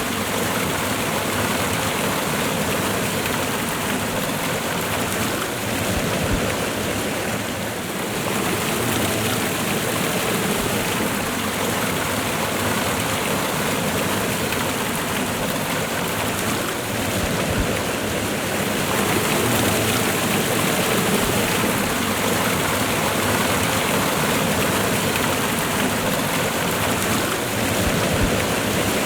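Waterfall and fast-running river water rushing steadily, a dense even roar of water.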